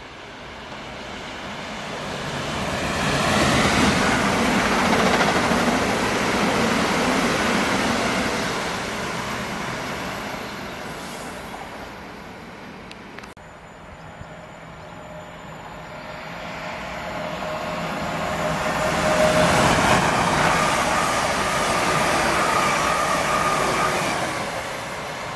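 Two trains passing through at speed. The first rushes past about three seconds in and fades; the second, a London Northwestern Railway Class 350 electric multiple unit, passes close by from about eighteen seconds in, its wheels running on the rails with a steady electric whine.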